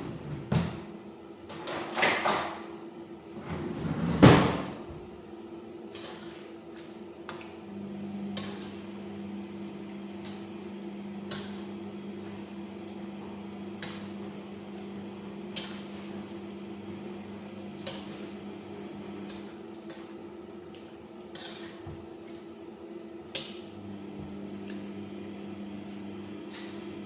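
Cookware knocking and clattering four times in the first five seconds, the last the loudest, followed by a steady low hum with a few light clicks.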